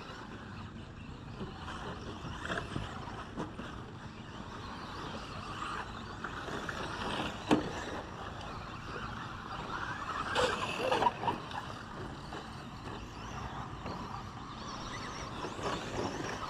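Radio-controlled 2WD short course trucks running around a race track. There is a sharp knock about seven and a half seconds in, and a louder cluster of sounds around ten to eleven seconds.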